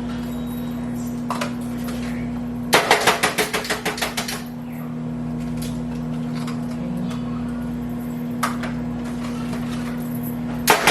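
A kitchen utensil tapping rapidly against a dish or cutting board, about seven quick clicks a second, in a burst of about a second and a half and a shorter one near the end, over a steady hum from a running kitchen appliance.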